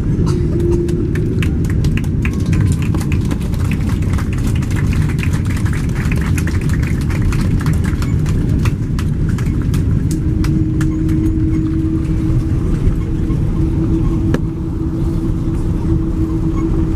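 Low, steady rumble of an airliner on the ground after landing, with a run of quick clicks and rattles in the first half. A steady hum comes in about ten seconds in.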